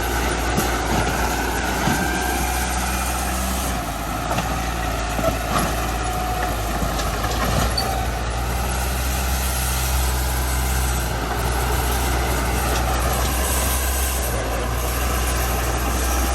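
Heavy diesel engine of earth-moving machinery running steadily under load, a deep continuous drone that shifts slightly in pitch a few times.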